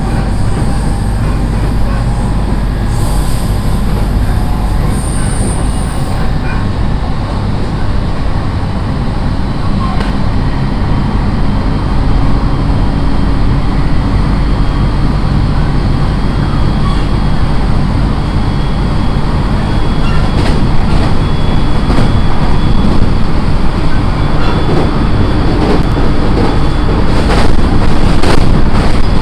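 Cabin running noise of a JR East 701-series electric commuter train: a steady rumble of wheels and running gear that grows louder about two-thirds of the way through, with a few sharp clicks near the end.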